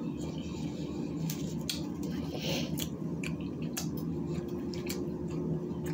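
Close-miked chewing of a taco: wet mouth clicks and squishy smacks scattered irregularly, over a steady low hum.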